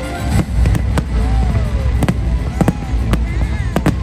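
Fireworks display: about half a dozen sharp bangs of bursting shells spread through the few seconds, over loud music from the show's soundtrack and a steady deep rumble.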